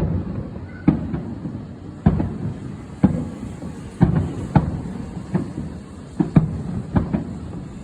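Fireworks shells bursting at close range: a string of sharp bangs at uneven spacing, about one to two a second, over a low rumble.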